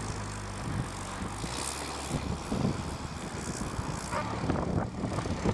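Engine of a homemade ride-on vehicle running at a steady speed.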